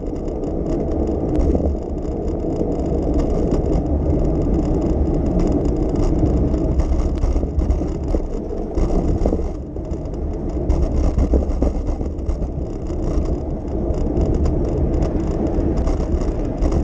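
City street noise heard from a moving bicycle: a steady low rumble of traffic and riding, with no single standout sound.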